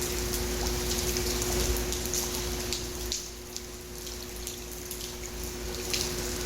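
Steady rain falling, with individual drops ticking and splashing, over a steady low hum.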